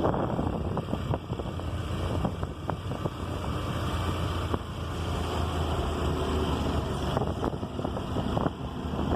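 Motorbike engine running steadily while riding, with wind buffeting the microphone and scattered small clicks.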